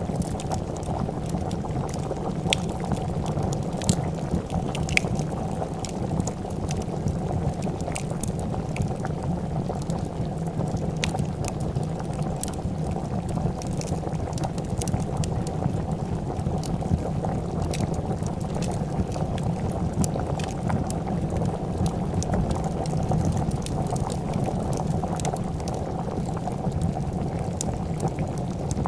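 A pot of soup boiling with a steady, dense bubbling, and a wood fire crackling with scattered sharp pops over it.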